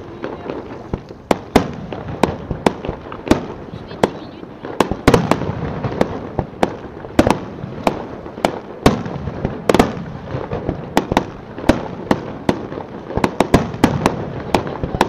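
Aerial fireworks display: shells bursting in rapid, irregular succession, many sharp bangs a second over a continuous noisy rumble.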